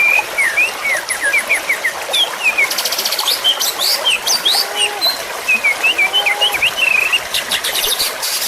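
Songbirds calling in a dense chorus of quick chirps and short whistled notes, with a few rapid high trills, over a steady hiss like running water.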